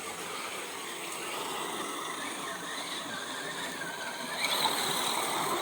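RC rock crawler's electric motor and gear drivetrain whining as it crawls, the pitch wavering up and down with the throttle and rising about four and a half seconds in.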